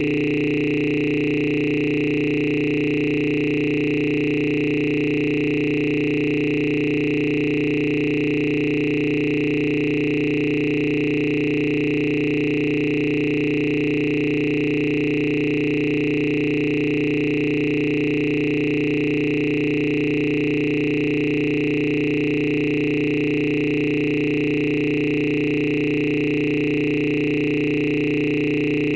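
A steady electronic drone of several held tones, one low and one high, unchanging throughout.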